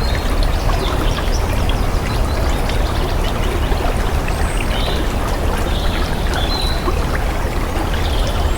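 Steady rush of flowing stream water, with a few short, high bird chirps over it in the second half.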